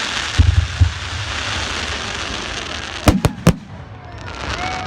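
Fireworks display: a cluster of deep booms about half a second in over a steady crackling hiss, then three sharp bangs in quick succession about three seconds in.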